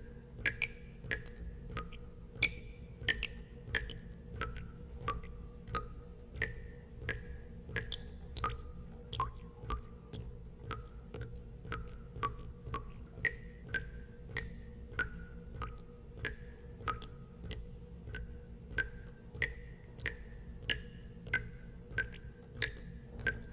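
Water drops falling one after another into water, a drop every half second or so, each a short plink at a different pitch, over a steady low hum.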